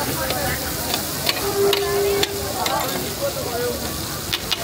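Food sizzling as it fries in a karahi, with frequent sharp metallic clinks of a spatula stirring against the pan. A short steady tone, just under a second long, sounds about halfway through.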